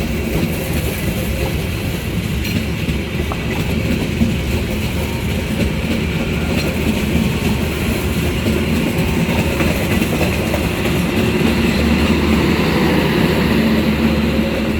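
Sembrani intercity train rolling along the rails with a steady rumble of wheels and a low hum, growing a little louder towards the end.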